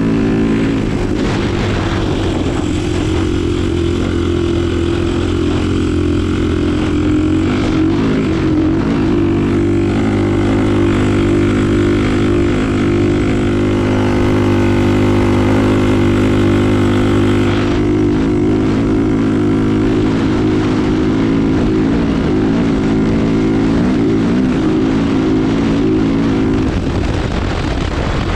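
Diabolini 250 cc four-stroke engine swapped into a Yamaha DT 125, running at a steady speed with small brief changes in engine speed a few times; the steady note fades out shortly before the end.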